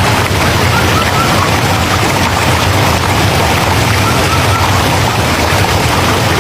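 Steady rushing water, an even, loud wash of noise, with a faint short high chirp coming back every few seconds.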